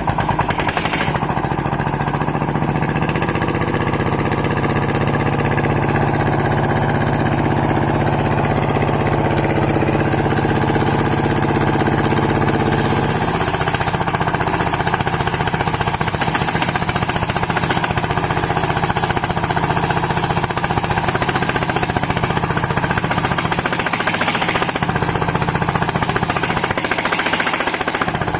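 Engine-driven homemade circular sawmill running loudly while sawing timber. About halfway through, the steady engine note gives way to a harsher, brighter sound.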